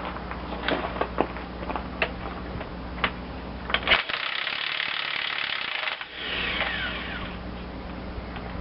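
Metal tools working the gland nut off a hydraulic lift cylinder's ram: a series of sharp metallic clicks and knocks, then about two seconds of steady hissing and rattling that trails off with a falling tone.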